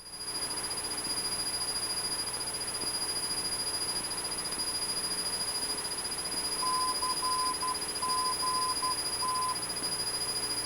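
Steady drone of a Cessna 172's four-cylinder engine heard through the cockpit intercom. From about six and a half to nine and a half seconds in, a high tone beeps in short and long pulses: Morse code, typical of a navigation beacon's identifier on the radio.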